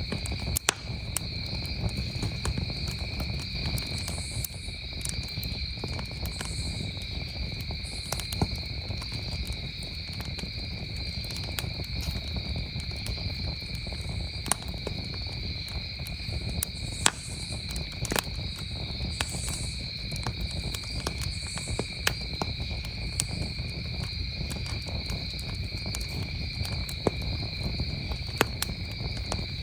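Wood campfire crackling with scattered sharp pops, over a continuous chorus of crickets trilling steadily at a high pitch.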